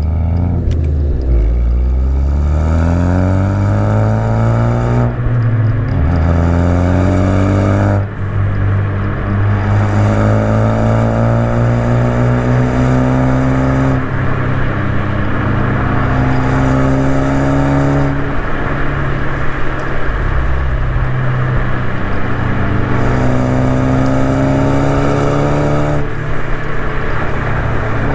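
Ford Focus ST's turbocharged 2.0-litre EcoBoost four-cylinder, resonator deleted, accelerating hard. The revs climb and drop sharply at each gear change several times, with a hiss riding on top while it pulls.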